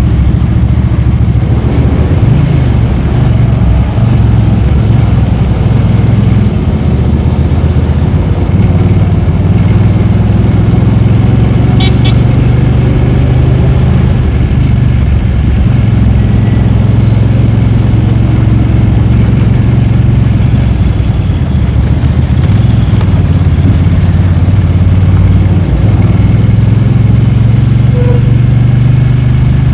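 Motorcycle engine running steadily while riding, its pitch shifting a little with throttle, over steady wind and road noise.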